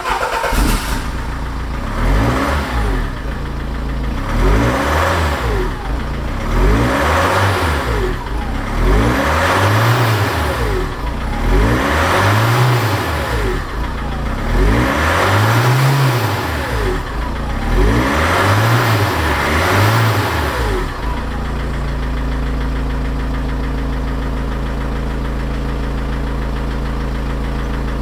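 Fiat Scudo van engine revved again and again, each rev rising and falling back every two to three seconds, then settling to a steady idle for the last several seconds.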